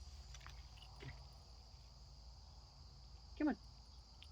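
Steady, high-pitched chirring of crickets or similar insects. About three and a half seconds in comes a brief voiced sound from a person, falling in pitch, which is the loudest thing here.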